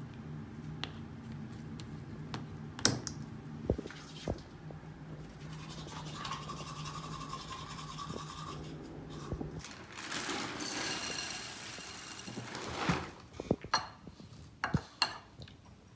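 Manual toothbrush brushing teeth, with a few sharp clicks and knocks in between and more near the end.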